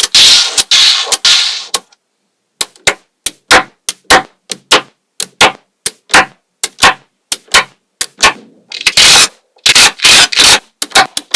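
Small magnetic balls clicking sharply together one at a time, about two to three clicks a second. At the start and again near the end there are stretches of dense rattling and scraping as a clump of balls is moved and shifted.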